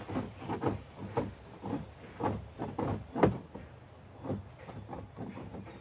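A scraper working at the inside of a plastic barrel, scraping off old residue in short, irregular strokes about two a second.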